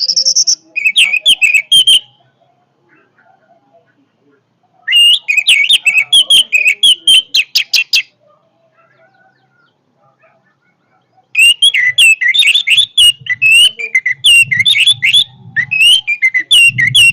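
Orange-headed thrush singing loudly in three bouts of rapid, varied whistled notes, each a few seconds long, with pauses between them.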